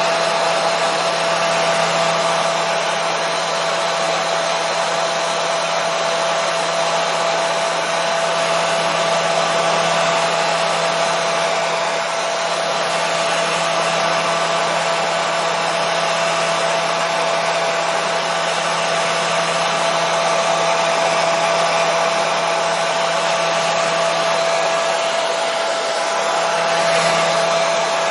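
Hair dryer running continuously: a steady rushing airflow noise with an unchanging motor whine.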